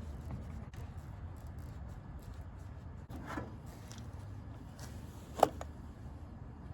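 Hand work on a car in a garage: a few faint scrapes and handling noises over a steady low rumble, with one sharp click about five seconds in.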